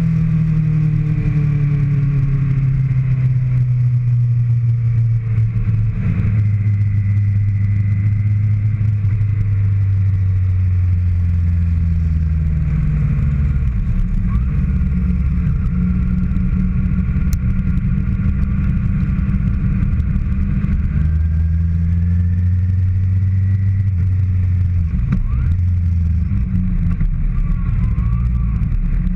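Onboard sound of a 2013 Kawasaki ZX-6R 636's inline-four engine running at moderate revs, its pitch sinking slowly over the first several seconds and then jumping up and down in steps several times, with steady wind rush over the microphone.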